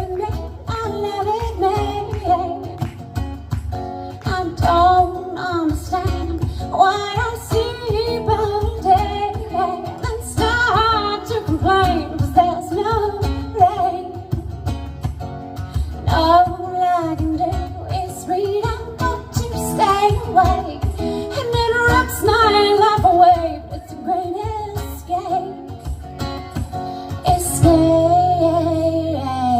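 A singer performing a song live over a strummed acoustic guitar.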